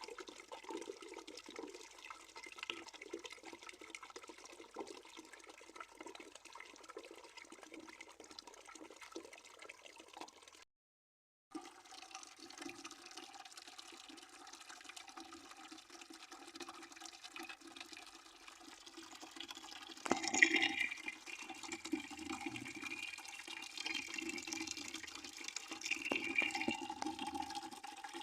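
Water running from a tap into a bucket, a steady splashing and gurgling stream. It drops out to silence for under a second about 11 seconds in, and gets louder and brighter about 20 seconds in.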